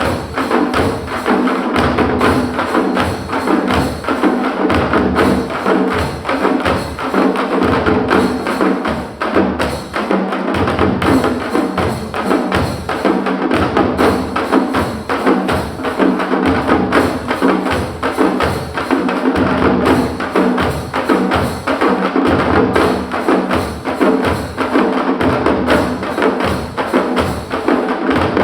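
Parai, traditional Tamil frame drums, played with sticks in a fast, driving rhythm. Dense sharp strikes run over a steady pulse of deeper beats.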